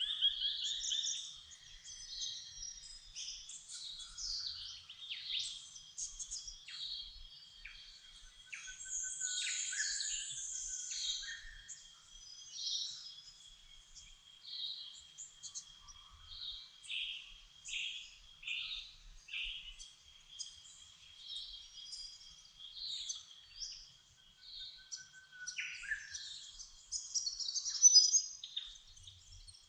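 Dawn chorus of several birds singing and chirping over one another: many short chirps, trills and falling whistled notes, with a thin steady high tone running underneath. The loudest burst of song comes near the end.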